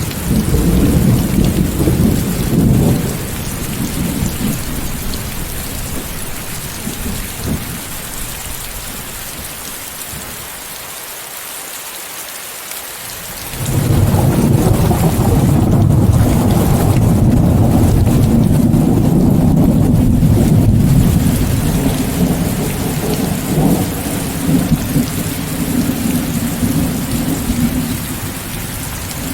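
Steady rain hiss mixed with white noise, with rolling thunder: a rumble dies away over the first few seconds, then a loud roll of thunder starts suddenly about halfway through and rumbles on for several seconds before slowly fading.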